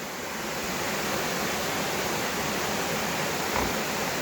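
A 40-foot waterfall rushing in a steady roar of white water, loud enough to drown out a voice, swelling a little in the first second. A brief low bump near the end.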